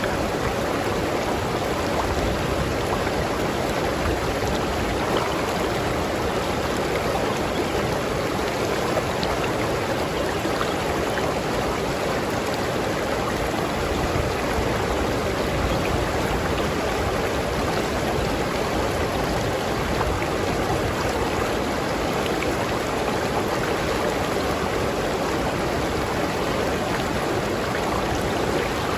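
River stream flowing steadily, a constant rushing babble of water with small splashes.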